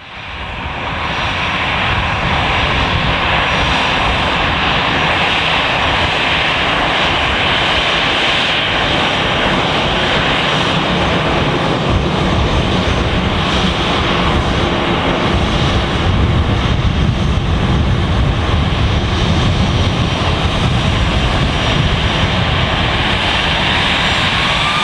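Airbus A318's CFM56 turbofan jet engines running, a steady loud jet noise that fades in over the first couple of seconds and holds for the rest.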